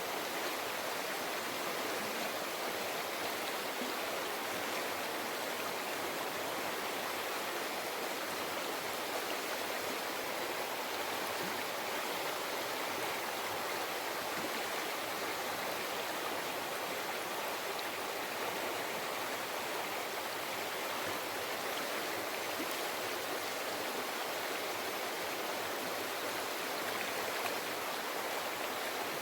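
Mountain river flowing over rocks: a steady, even rushing and babbling of water.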